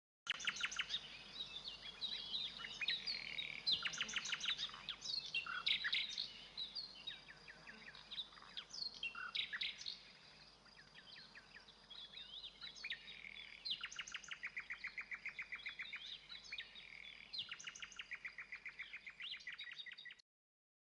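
Songbirds singing, several overlapping with varied chirps and whistled phrases, then fast trills of quick repeated notes in the second half. The sound cuts off abruptly about twenty seconds in.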